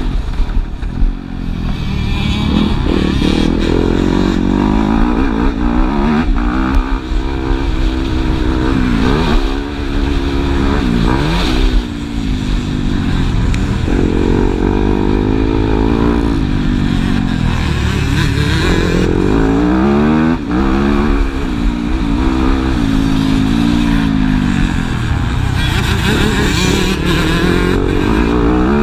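Motocross bikes racing, their engines revving up and down through the gears, the pitch rising and falling over and over, loud and continuous.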